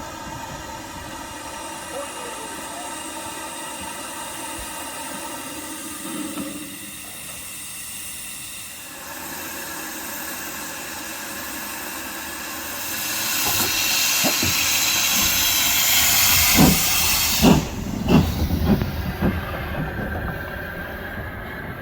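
Steam locomotive hissing steam, the hiss growing loud about two-thirds of the way in and cutting off sharply, followed by a few heavy beats.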